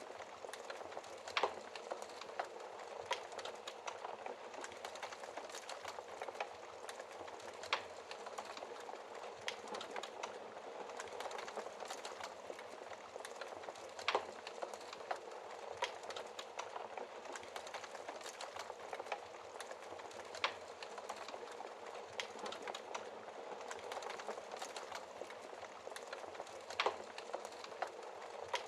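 Wood fire burning in a fireplace: a steady hiss with constant small crackles and a sharp, louder pop every few seconds.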